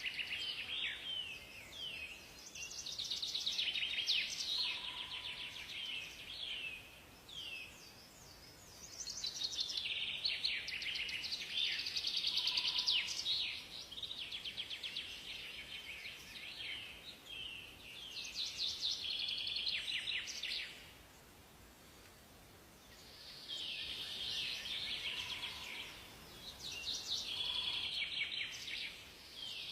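Songbirds singing in a chorus of rapid high chirps and trills that come in bursts several seconds long with short lulls between, and now and then a single short, lower whistled note.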